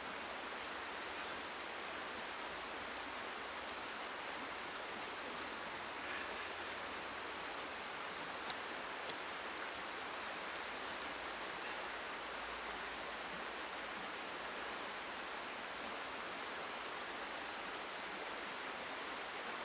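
Steady rush of a flowing river, with a few faint clicks and ticks over it.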